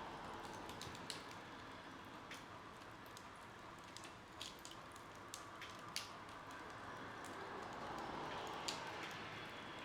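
Wood fire burning in a fireplace: irregular sharp pops and snaps of burning logs over a soft steady hiss of the flames, with a louder snap about halfway and another near the end.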